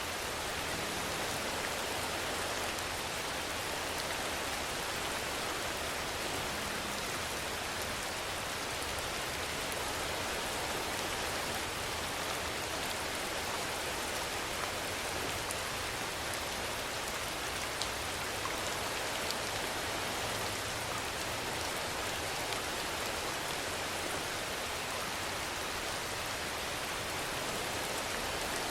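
Steady rainfall, an even hiss with a few single drops ticking through it.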